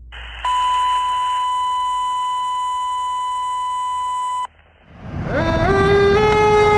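A steady electronic beep tone holds for about four seconds and then cuts off suddenly. About a second later a fire truck siren starts winding up in rising steps over a low engine rumble.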